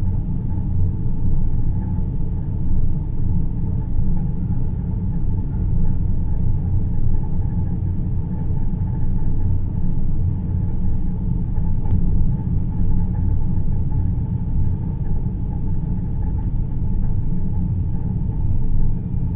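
Deep, steady low rumble of a space-ambience white-noise soundscape, heaviest in the bass with a fainter hum above it.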